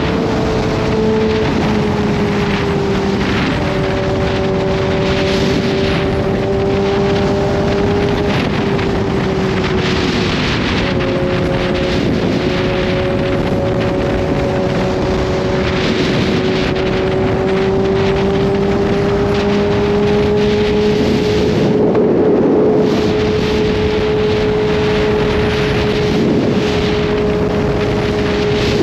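Kawasaki Z H2's supercharged inline-four engine running at a steady cruise, its pitch holding nearly level with only slight dips and rises. Constant wind noise buffets the microphone throughout.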